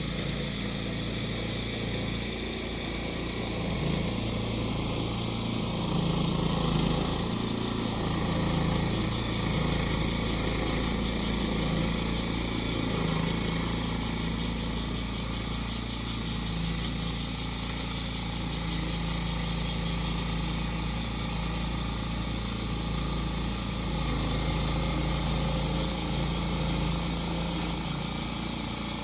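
The small engine of a grass-cutting machine runs steadily under load. Cicadas make a high, pulsing buzz over it, stronger after the first several seconds.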